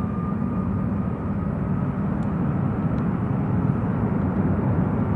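Jet airliner engine noise heard from a distance: a steady low rumble that grows slowly louder, with a faint thin whine edging upward in pitch.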